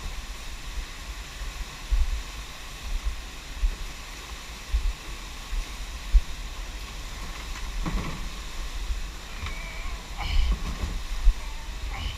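Steady rushing of fast, flooded creek water, with irregular low thumps of buffeting on the microphone.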